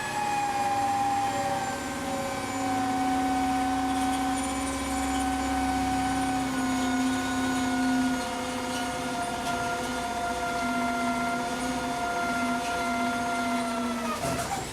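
Electric drill running continuously as it drills a hole, its whine sagging slightly in pitch under load, then stopping near the end.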